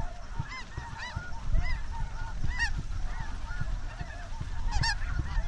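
A flock of snow geese and Ross's geese calling: many overlapping short, high, yelping honks, several birds at once.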